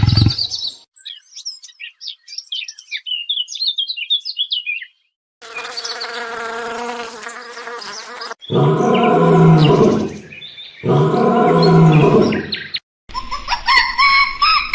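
A string of different animal calls, cut one after another: first a quick run of high chirps, then a held pitched cry, then two loud calls about two seconds each, then high squealing calls near the end.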